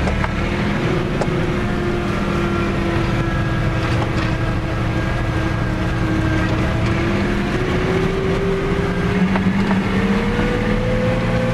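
Fiat 110-90 tractor's six-cylinder diesel engine running under load as the tractor drives along. The engine pitch climbs over the last few seconds as the revs rise.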